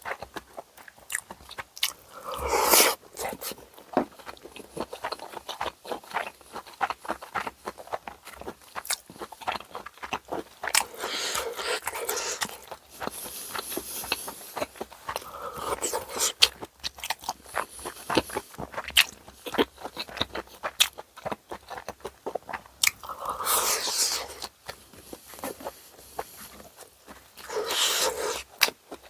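Close-miked chewing of bossam, boiled pork eaten with side dishes: many small wet mouth clicks, with a few louder crunchy bites, about five in all.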